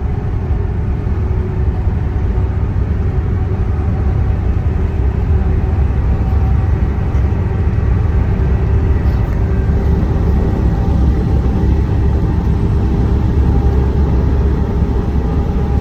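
Truck driving, heard from inside the cab: a steady low rumble of engine and road noise with a faint steady hum over it.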